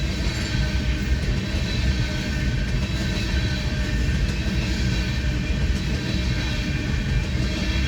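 Freight train of tank cars rolling steadily past a grade crossing, a continuous heavy rumble of wheels on rail.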